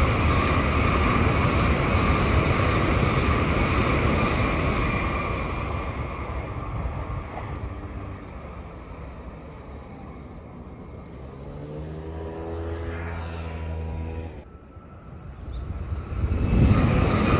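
Passing train noise that fades away over several seconds into a quieter lull with a low droning hum, drops off suddenly, then swells up loud again as another train approaches near the end.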